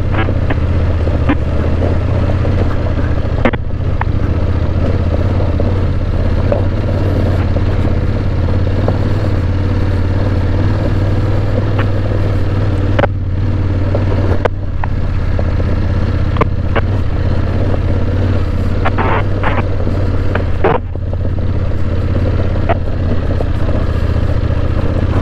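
Motorcycle engines running steadily at low revs as the bikes creep up a loose rocky track, with a few short clicks and knocks of stones.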